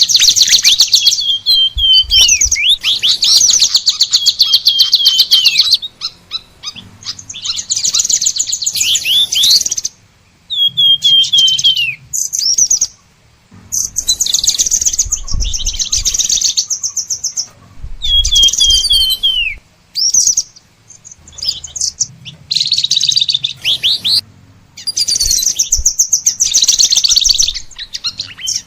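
Songbird song from a kolibri ninja (Van Hasselt's sunbird) combination recording: rapid, high chattering trills in bursts of several seconds, broken by short downward-sweeping whistled notes, with brief pauses between phrases.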